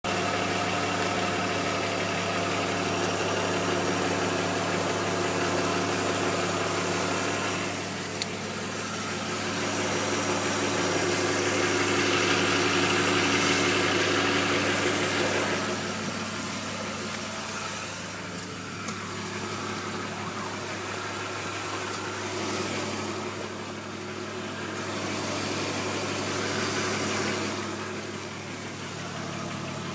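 BMW E36's M50B20TU 2.0-litre inline-six idling steadily with the knock/rattle that the owner is trying to trace. The sound grows louder and fainter a couple of times.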